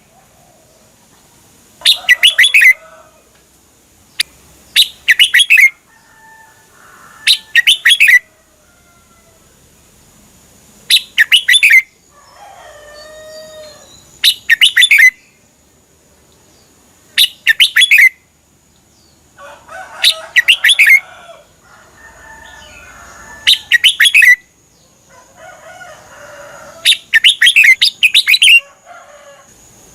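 Red-whiskered bulbul singing short, loud, warbling phrases, about one every three seconds, with fainter, lower chattering calls between some of them.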